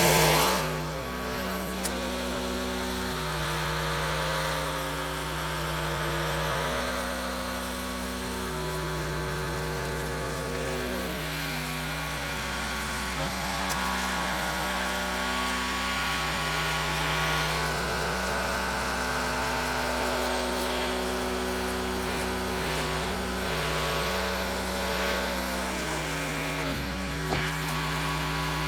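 Gas-engine pressure washer running steadily, its engine note stepping up and down every few seconds over the hiss of the spray. A short loud rush of noise comes right at the start.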